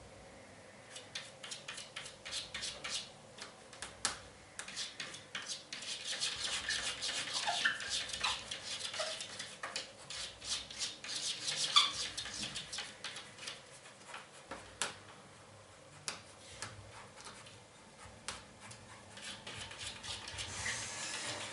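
Cat's claws scratching and tapping rapidly at window glass in quick runs of scrapes and clicks, with a few short chirps mixed in.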